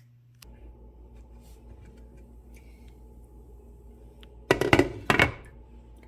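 Two loud knocks of cookware about four and a half and five seconds in, over a steady low kitchen hum with a faint held tone.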